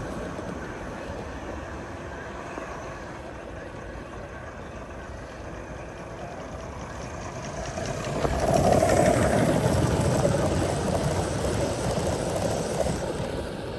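Gauge 1 model train running on the track, its sound growing louder about eight seconds in as it comes close, then easing off near the end.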